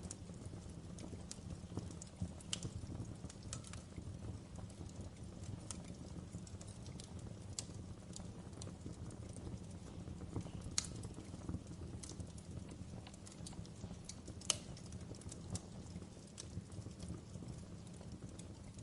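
Wood fire in a fireplace crackling: a steady low rumble of burning under irregular sharp pops and snaps, with two louder pops about eleven and fourteen and a half seconds in.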